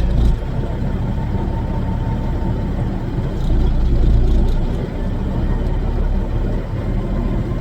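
Kenworth W900's Caterpillar diesel engine running steadily with a low rumble, swelling slightly in loudness about halfway through.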